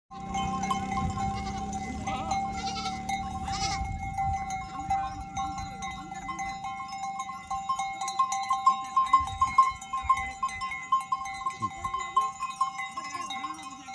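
A goat herd bleating as it moves, with bells clinking. The clinking thickens into a rapid clatter about halfway through.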